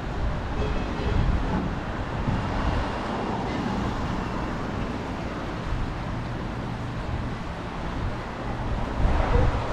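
Strong wind gusting on the microphone, a low uneven rumble with a louder gust near the end.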